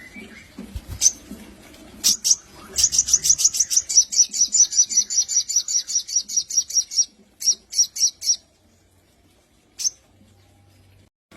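Sogon (crimson sunbird) singing: a few sharp high chirps, then a fast, even trill of high notes at about seven a second lasting around four seconds, a short burst of a few more notes, and one last chirp.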